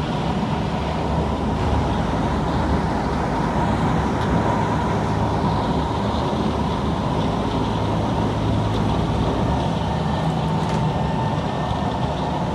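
Kawasaki C151 MRT train running along the line, heard from inside the car: a steady rumble of wheels and running gear with a steady high whine.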